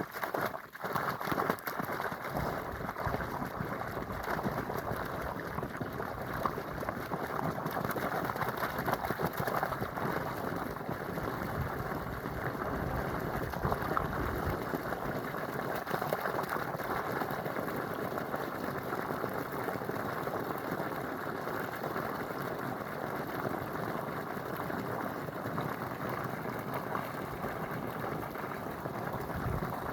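Flowing water rushing steadily, an even wash of sound with no breaks.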